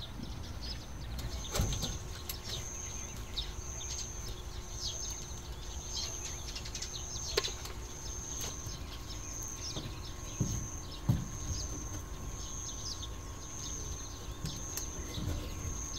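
Birds chirping over a steady, high-pitched call that pulses a little faster than once a second, with a couple of soft knocks past the middle.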